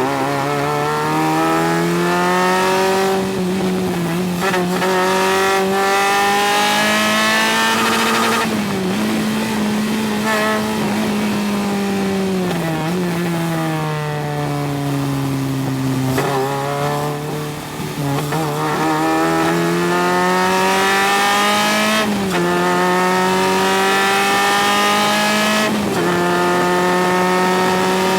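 Single-seater race car engine heard from the cockpit on a lapping run, its pitch climbing steadily under acceleration and dropping suddenly at each gear change, and falling off more slowly where it slows for corners.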